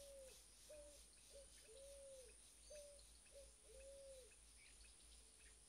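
A bird calling faintly with low cooing notes, a phrase of two short notes and one longer drawn-out note repeated three times.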